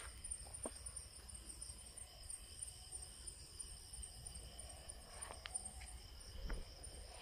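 Crickets chirping faintly as a steady high-pitched trill, with a few faint clicks.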